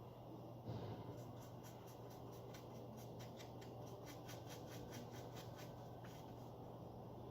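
Faint, quick scratchy strokes, about four a second, of a brush working epoxy resin onto the wing's foam and fabric for about five seconds, over a steady low hum.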